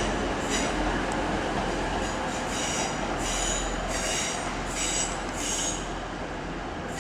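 Two coupled Class 185 diesel multiple units pulling out, their wheels giving repeated high-pitched squeals over a steady low rumble.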